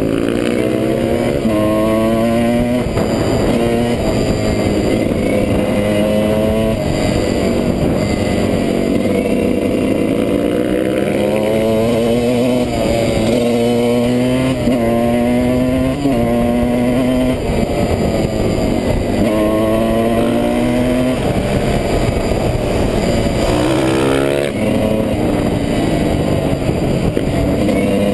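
Off-road dirt bike engine revving hard over and over, its pitch climbing, dropping back, and climbing again every second or two as the rider works the throttle and gears.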